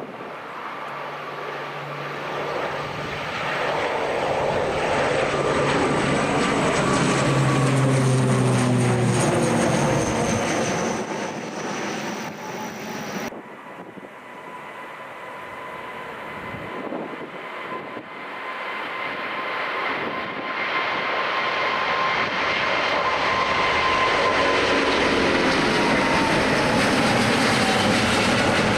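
Jet airliner engines passing close by at a runway, the whine falling in pitch as it goes past. About halfway through the sound changes abruptly, and another jet's engines with a steady whine build up loud again.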